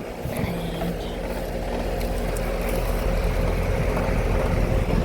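Daikin DX16SA 4-ton central air conditioner condensing unit running: a steady hum from the Copeland scroll compressor under the whoosh of the condenser fan, with a light rattle that the owner puts down to a loose panel.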